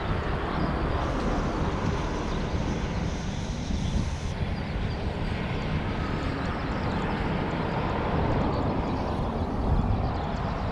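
Aircraft engine noise: a steady rumble without a clear pitch, holding at an even level.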